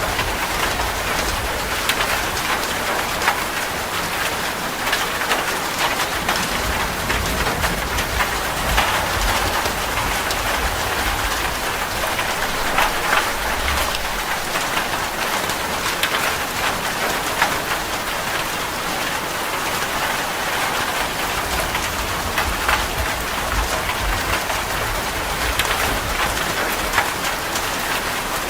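Heavy rain falling on a metal roof: a steady dense hiss full of sharp drop ticks, with low rumbles of thunder coming and going underneath.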